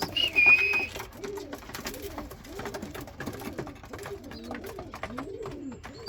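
Racing pigeons in a loft cooing over and over, one low rising-and-falling coo after another. There is a brief high whistle in the first second, and scattered light clicks and taps.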